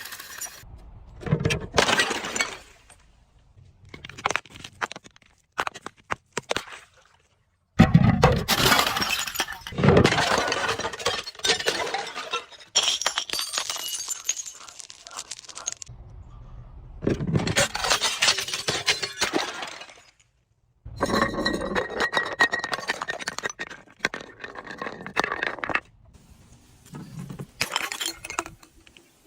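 Glass being crushed: repeated bursts of crunching, cracking and clinking, each lasting a second or a few, separated by short pauses, several starting or cutting off abruptly.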